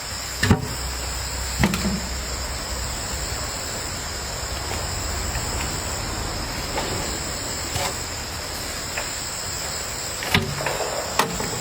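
Insects droning steadily at a high pitch, with about five sharp knocks scattered through it.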